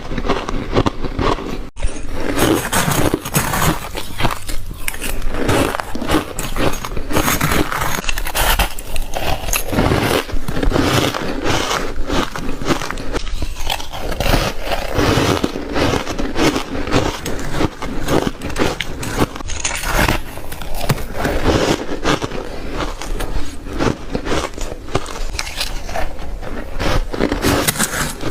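Ice being bitten and chewed: a continuous, dense run of crunching and crackling bites.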